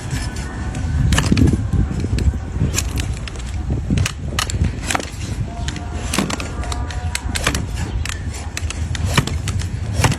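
A donkey's hoof being trimmed: a run of sharp, irregular cutting clicks and snaps as a blade works through the hoof horn, over a low rumble.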